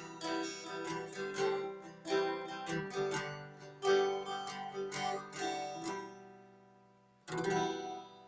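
Acoustic guitar music, quickly plucked notes that die away about six seconds in, then one last strummed chord.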